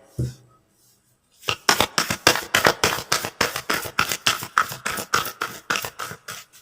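A deck of tarot cards shuffled by hand: a quick, even run of short slaps, about four or five a second, starting a little over a second in.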